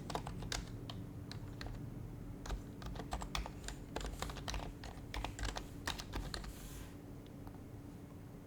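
Typing on an HHKB Professional Hybrid Type-S keyboard, with its Topre electro-capacitive switches. The keystrokes come in quick, uneven runs and stop about seven seconds in.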